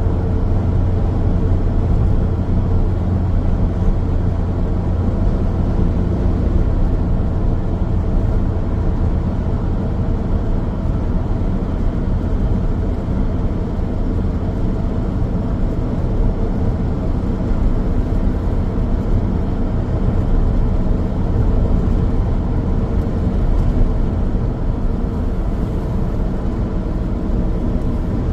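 Car driving steadily along a road: an even low rumble of tyres on the road surface and engine noise, with no changes or sudden events.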